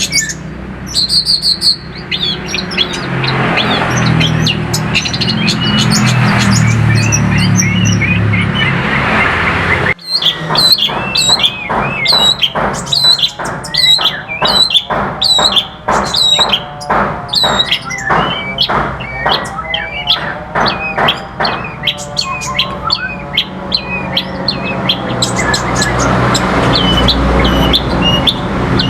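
White-rumped shama (murai batu) singing a varied song of whistles and fast repeated notes. The song breaks off briefly about ten seconds in and resumes with rapid trills, over a low steady hum.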